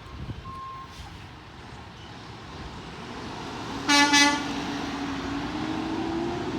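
Garbage truck horn sounding a short double toot about four seconds in, after a last reversing beep near the start. The truck's engine note then rises slowly in pitch.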